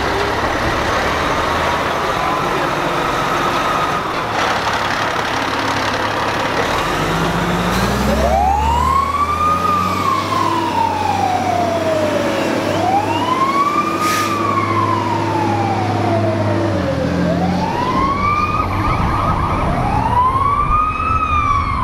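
Fire truck siren wailing, its pitch rising quickly and then falling slowly, repeating about every four seconds from about a third of the way in, over a truck engine and road noise.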